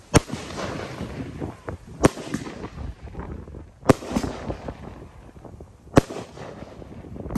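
Consumer 1.4G fireworks cake firing aerial shots, with a sharp bang from each burst about every two seconds and crackle and echo rumbling between them.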